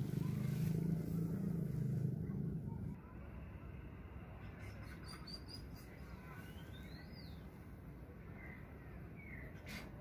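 Small birds chirping in short calls that glide up and down, over a low rumble that stops about three seconds in; a few faint clicks near the middle.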